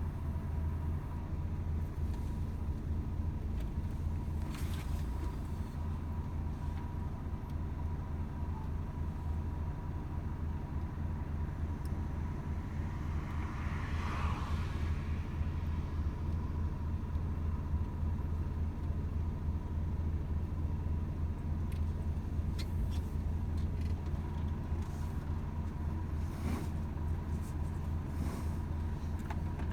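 Volvo FH 500 truck's 13-litre six-cylinder diesel engine running at a steady cruise, a low even drone with road rumble, a faint steady high tone and a few light clicks. A brief swell of higher noise rises and falls about halfway through.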